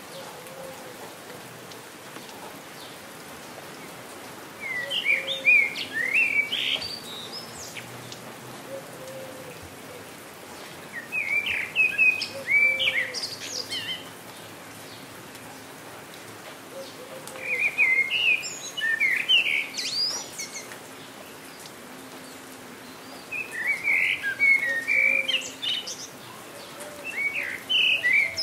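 A songbird singing short, quick warbled phrases of about two seconds, five times at roughly six-second intervals, over a steady hiss of falling rain.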